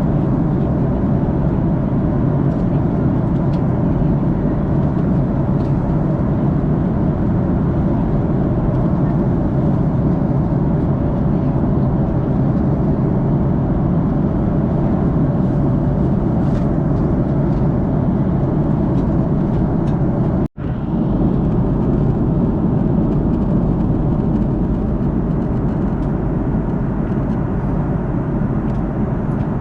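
Steady cabin noise of an Airbus A330-343 airliner in flight: a constant low rush of engine and airflow sound heard from inside the cabin. It cuts out very briefly about two-thirds of the way through.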